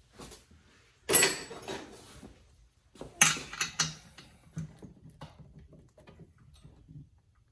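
Metal hand tools clattering and clinking as they are picked through and handled: two loud rattling bursts, about a second in and about three seconds in, then scattered light clicks.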